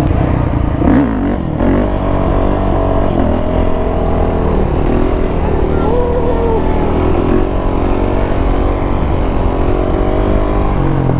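Yamaha YZ450F's single-cylinder four-stroke engine running steadily under light, varying throttle as the dirt bike is ridden along in a wheelie.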